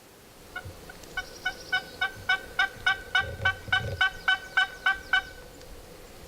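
A wild turkey yelping: a run of about fifteen evenly spaced yelps, roughly three or four a second, growing louder through the middle and then tapering off.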